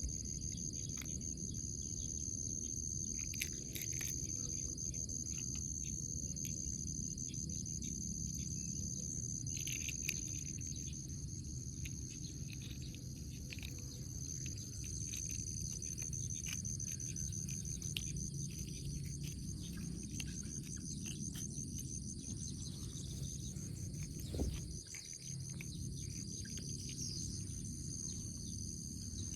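Steady, high-pitched insect chorus over a constant low rumble, with scattered faint clicks and one brief knock near the end.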